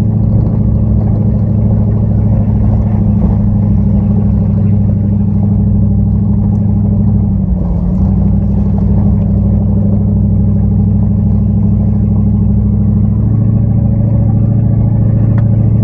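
Dodge Ram pickup's engine pulling steadily as the truck climbs a steep mountain dirt trail: a low, even drone, with a brief dip and recovery in pitch about halfway through.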